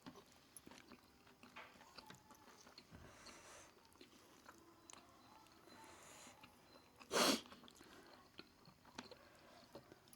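A person eating roast chicken: soft chewing with many small wet mouth clicks, and one brief, much louder noise about seven seconds in.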